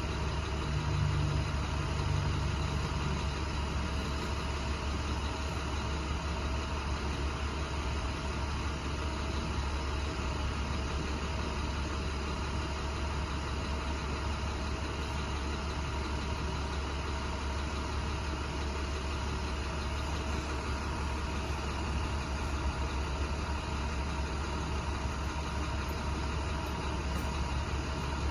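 Box truck's engine running steadily, a constant low drone with no change in speed.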